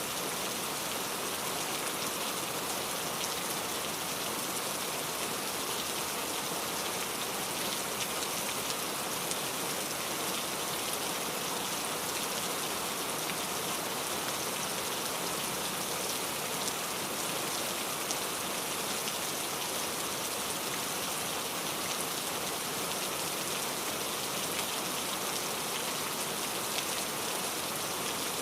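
Steady rain falling, an even hiss of drops with faint individual ticks of drops striking a surface.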